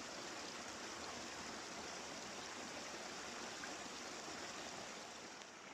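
Small babbling brook: a steady rush of running water, easing slightly near the end.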